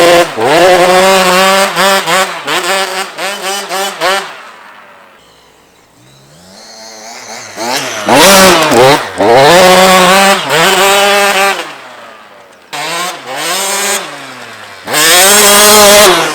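KTM SX85 two-stroke motocross bike engine revving hard, its pitch climbing and dropping again and again as it is ridden through the gears. It fades away about five seconds in and comes back loud about eight seconds in, dipping once more before rising loud near the end.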